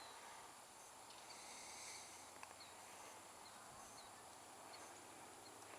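Near silence: faint pond-side ambience with small, high chirps repeating every half second to a second.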